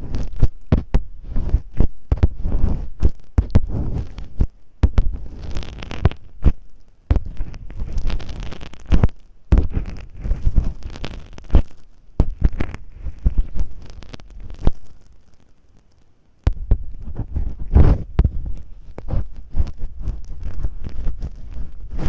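Masking tape rubbed and scratched close against the microphone in ear-cleaning ASMR style: irregular crackly strokes and clicks with heavy low thumps. It fades away a little after halfway, then starts again abruptly about three-quarters of the way in.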